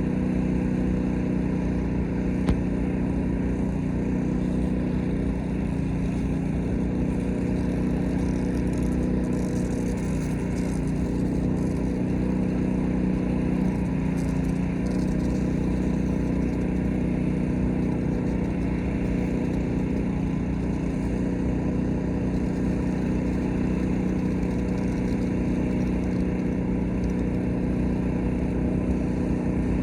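Small gasoline engine of a pressure washer running steadily at constant speed, a continuous even drone.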